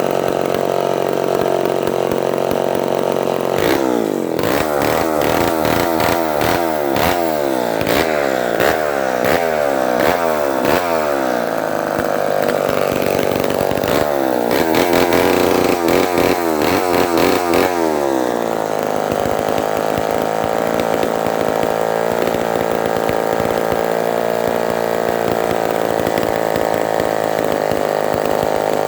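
Vintage Homelite Super 77 gear-drive two-stroke chainsaw running on a freshly rebuilt carburettor. It idles, then is revved up and down over and over in quick succession for about fourteen seconds, then settles back to a steady idle for the last ten seconds.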